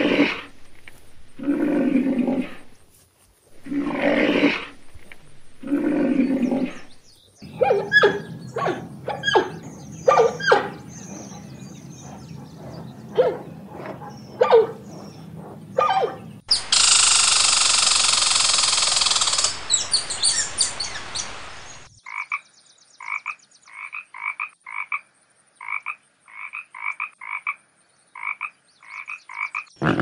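A string of different animal calls: four long, low calls about two seconds apart, then scattered short calls over a low steady hum. About halfway through comes a few seconds of loud hiss, and near the end a run of quick, short, croak-like chirps.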